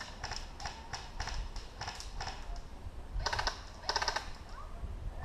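Airsoft guns firing: spaced single clicking shots, then two short full-auto bursts about three and four seconds in.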